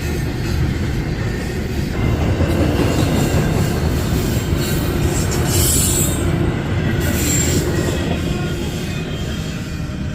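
Long freight train's cars rolling past: a steady rumble and rattle of wheels on the rails, with brief high wheel squeals twice around the middle.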